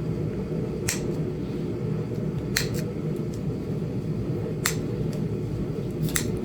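Four sharp clicks of flakes snapping off a small Flint Ridge chert point as it is knapped, spaced irregularly, over a steady low hum.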